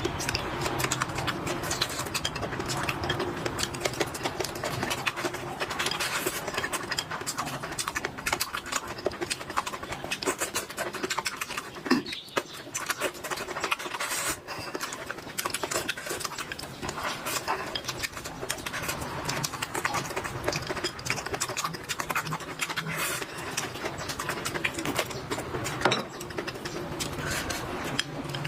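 Close-miked eating sounds: chewing and mouth noises, many small wet clicks and crackles that run on without a break.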